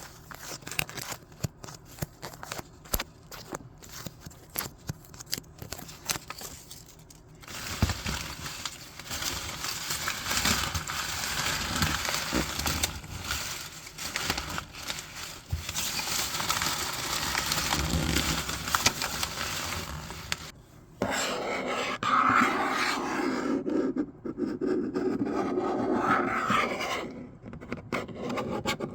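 Paper being handled by hand. First come several seconds of quick crackling, then a long stretch of continuous scraping and rubbing of paper with a couple of brief pauses.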